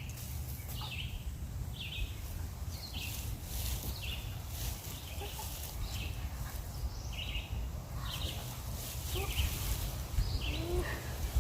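Birds chirping repeatedly in short calls, over a steady low rumble, with scattered crackling footsteps.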